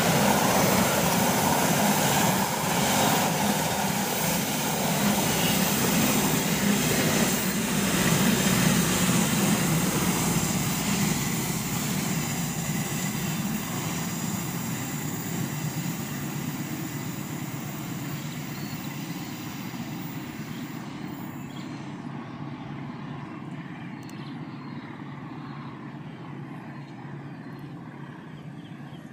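Argo Parahyangan passenger train rolling past on a sharp curve. Its rumble fades away steadily as it recedes.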